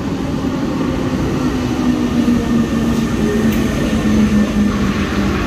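RER B commuter train pulling into an underground station and running past at close range: a heavy rumble growing louder, with a steady motor whine that sinks slightly in pitch as the train slows.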